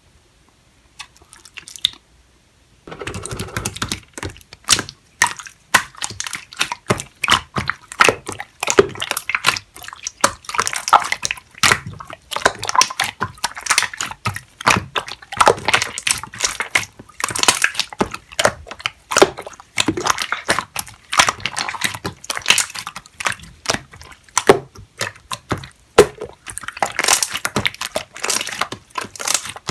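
Slime being squished, pressed and stretched by hand, giving a dense run of wet, sticky clicks and pops that starts about three seconds in, after a near-silent opening.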